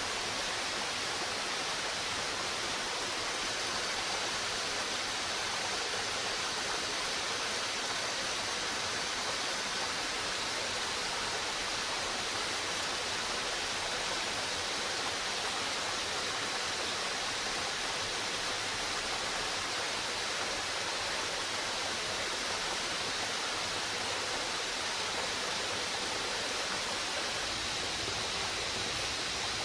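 Steady, even rush of running water, with faint steady high tones above it.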